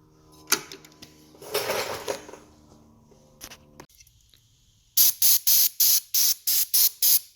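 Aerosol carb cleaner sprayed onto a Briggs & Stratton engine's auto choke mechanism to wash out dirt: a short hiss early on, then from about five seconds in a quick run of short spray bursts, about three a second.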